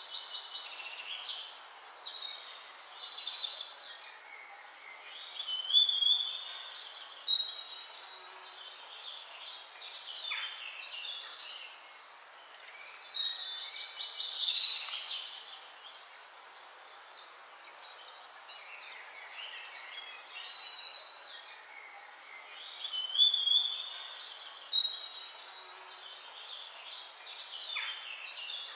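Several birds singing and calling: bright chirps, trills and short whistles in clusters every few seconds, over a steady faint background hiss.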